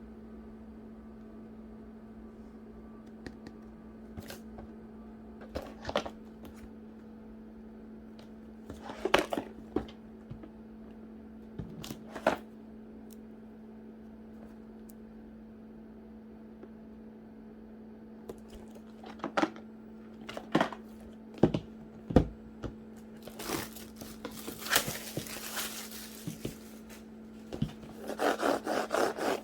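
Packaging handled by hand during an unboxing: scattered taps and knocks, a stretch of crinkling and tearing of wrapping about two-thirds of the way in, and a dense burst of crinkling near the end, over a steady low hum.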